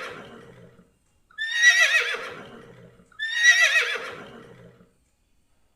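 Horse whinnying: the same wavering, high-pitched neigh heard three times, the first trailing off at the start and two more following about two seconds apart, each fading out.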